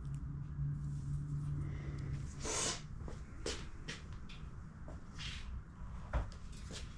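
Several short hissing blasts of spray, the loudest about two and a half seconds in, as a two-stroke generator's carburetor jet is blown through to check that it is open. A low steady hum runs for the first two seconds, and a single knock comes near the end.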